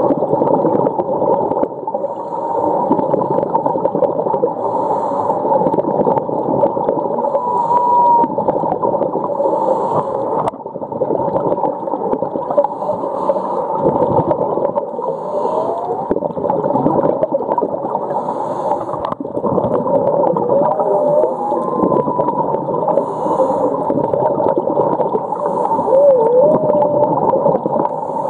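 Humpback whale song heard underwater: short whining and moaning calls that slide up and down in pitch, coming every few seconds over a steady underwater hiss and crackle.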